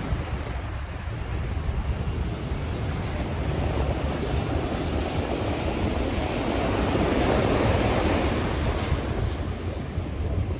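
Ocean surf washing onto a beach, swelling louder about seven seconds in, with wind rumbling on the microphone.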